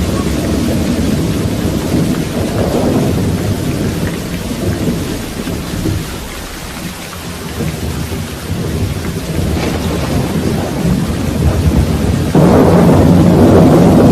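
Thunderstorm: steady rain with thunder rumbling, swelling and fading, easing off around the middle, then a sudden louder peal about twelve seconds in.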